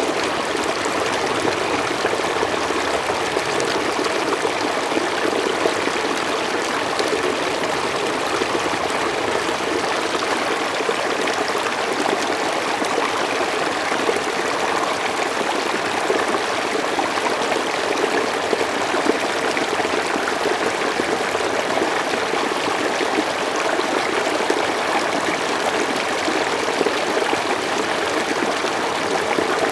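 Mountain stream flowing steadily, an even rushing of water with a light trickle and no let-up.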